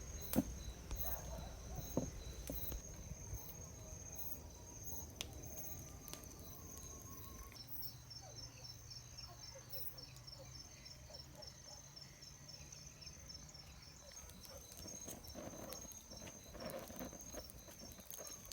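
Crickets chirping in a steady high trill, joined about seven seconds in by a second insect pulsing about four times a second, with a few faint clicks.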